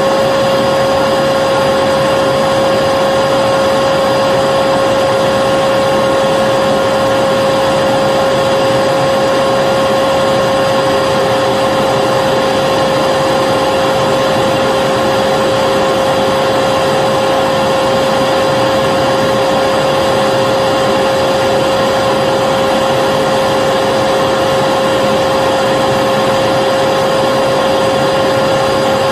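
Vacuum cleaner running steadily: a constant motor whine over a rushing air noise, with no change in pitch or level.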